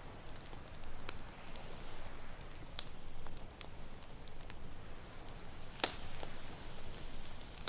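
Campfire crackling, with frequent small pops and one louder snap near the end, over a steady wash of ocean waves.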